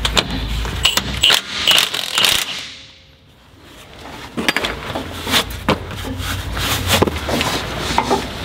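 Metal tools clinking, knocking and scraping irregularly while working at a tight drain plug, with a short lull about three seconds in.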